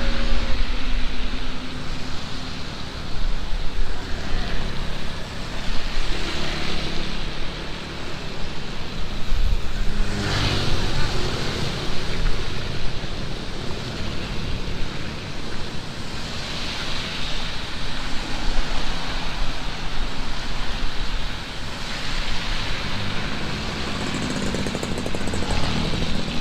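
Heavy rain pouring steadily, with motor vehicles driving past several times; the loudest passes about ten seconds in.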